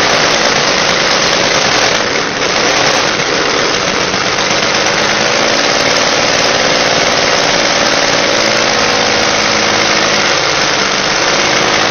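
Two-stroke aircraft engine running steadily and loudly, with a brief small dip in level about two seconds in.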